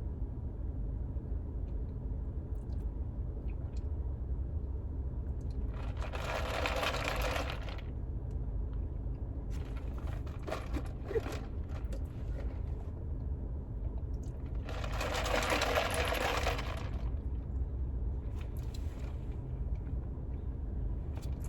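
Steady low hum of a car idling, with two bursts of about two seconds each, near 6 and 15 seconds in, of a drink being sucked up through a straw.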